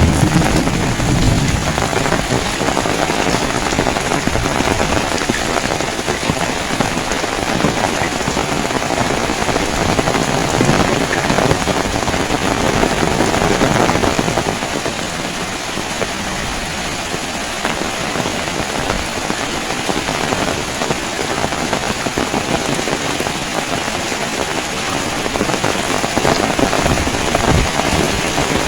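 Heavy rain pouring down steadily, easing slightly about halfway through before picking up again near the end.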